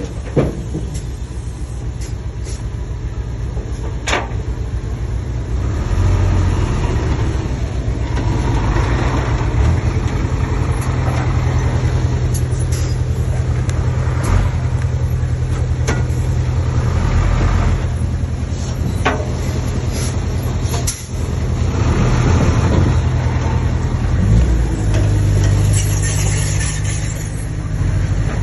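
Komatsu D20P crawler bulldozer's diesel engine running steadily, louder and under more load from about six seconds in, with a few sharp metallic knocks.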